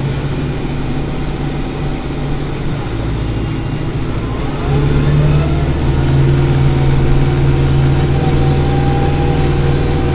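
Kubota 5740 tractor's diesel engine running steadily, getting louder about halfway through.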